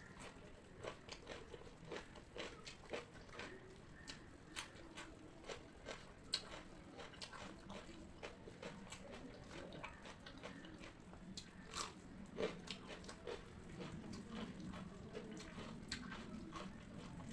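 A person chewing and crunching a meal of pakhala bhata with puffed rice, fried neem flowers, raw cucumber and onion: a run of sharp, irregular crunches between softer chewing.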